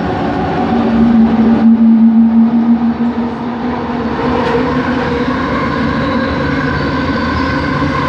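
Kelana Jaya Line Bombardier ART Mark II train's linear induction motors whining in several steady tones over running noise. A strong low hum comes in about a second in and dies away near three seconds: the motor noise the uploader calls weird.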